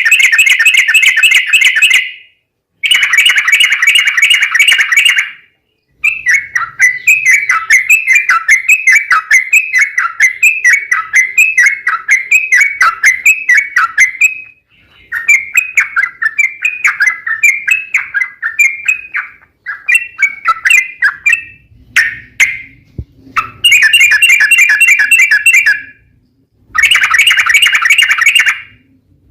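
Yellow-vented bulbul singing: loud, long runs of rapid chattering notes in several bursts, broken by short gaps, with the longest run lasting about eight seconds.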